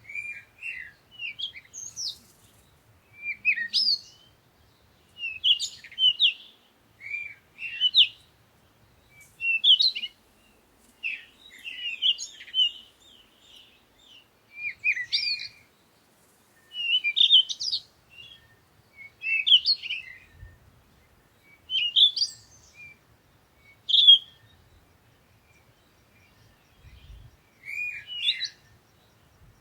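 Songbirds singing, short chirping phrases repeated every second or two, with a brief lull a few seconds before the end.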